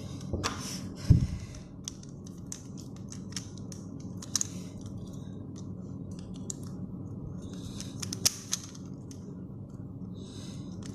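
Plastic pieces of a 3x3 puzzle cube clicking and snapping into place as the cube is put back together, with short plastic scrapes as its layers are turned. There is one louder knock about a second in.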